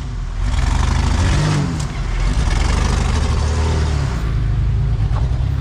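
Off-road competition 4WD truck's engine running hard under load as it drives an obstacle, the revs dipping and picking up again about a second and a half in.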